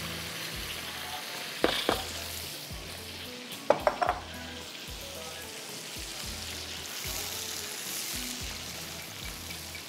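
Food frying and sizzling steadily in hot butter and oil in a cooking pot. There are a few short clinks of a utensil about two and four seconds in.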